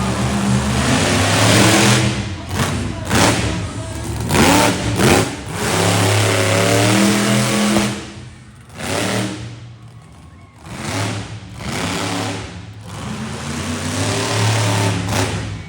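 Monster truck engines revving loudly in repeated bursts, the pitch rising and falling with each rev, with a brief lull about halfway through.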